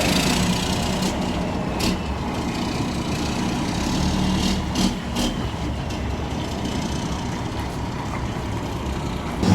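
Heavy road traffic: a truck's diesel engine running with steady road noise, with a few short clicks about two and five seconds in.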